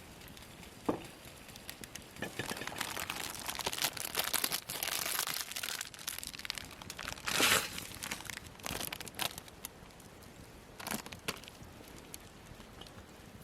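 Crinkling and crumpling of something being handled by hand, with a louder rustle about seven and a half seconds in and a few sharp clicks.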